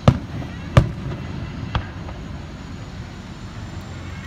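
Aerial firework shells bursting: two loud booms less than a second apart at the start, then a fainter third about a second later, over a steady low background hum.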